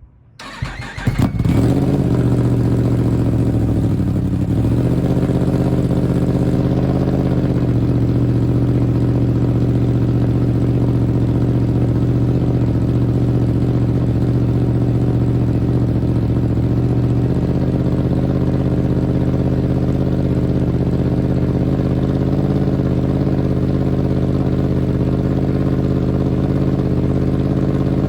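Yamaha YZF-R1 crossplane inline-four with an Akrapovič WSBK race exhaust starting up about a second in, then settling into a steady, loud idle.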